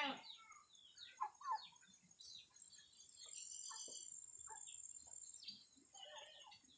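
Faint birds chirping in short, scattered calls, with a steady high-pitched whine for a couple of seconds in the middle.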